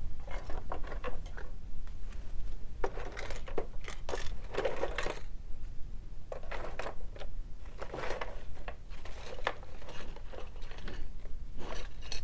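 Hands rummaging through a box of small sewing notions, with irregular clicks, light clatter and rustling.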